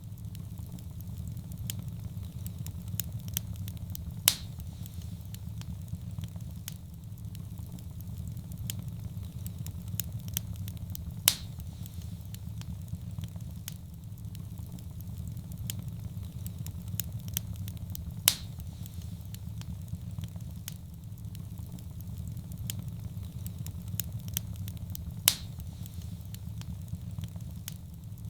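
Wood fire burning in a fireplace: a steady low roar with small crackles throughout and four loud sharp pops, evenly spaced about seven seconds apart.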